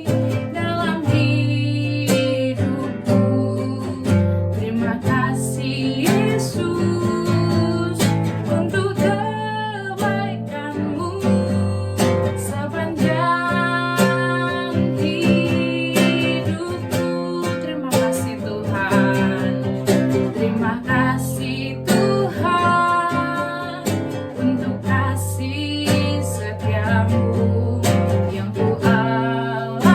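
Worship song with strummed acoustic guitar and a singing voice, a song of thanks for God's faithful love.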